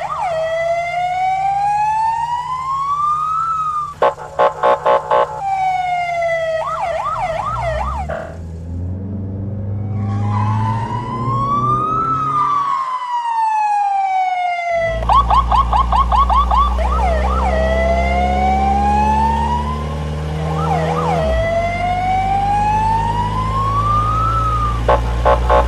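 Cartoon police siren wailing, its pitch slowly rising and falling over several seconds at a time, with short bursts of rapid pulsing beeps three times. Under it is a steady low engine hum from the chase sound effects.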